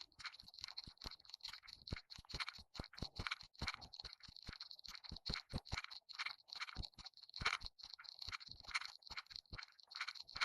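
Dense, irregular crunching and crackling, several short crackles a second, uneven in strength.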